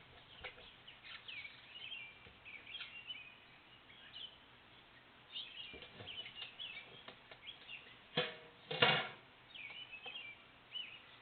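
Small birds chirping: many short, high chirps. Two louder, lower sounds come about eight seconds in.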